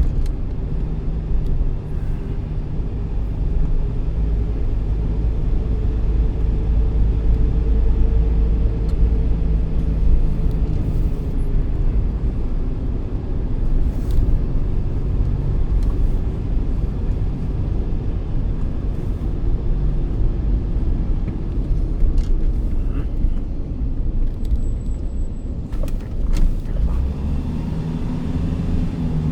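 Steady low rumble of a moving road vehicle, with a faint engine hum.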